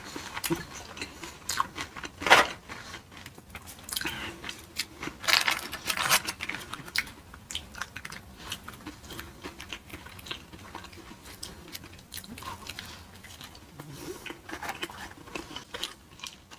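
Close-miked chewing and biting of food, with irregular crunches, the loudest about two seconds in and around five to six seconds in.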